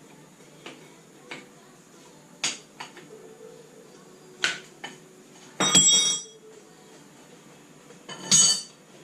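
Metal clinking during work on a classic Mini's engine: a few light knocks, then two louder clattering clinks with a metallic ring, about six seconds in and near the end.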